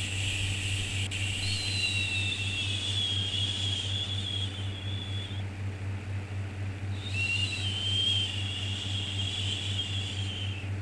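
Long drawn-out 'shhh' shushing sounds for soothing a baby, each lasting about five seconds with a short pause in between, over a steady low hum.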